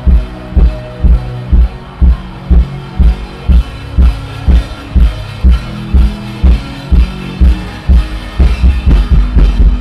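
Worship band music: a kick drum beating about twice a second under sustained keyboard chords, with the drumming getting busier near the end.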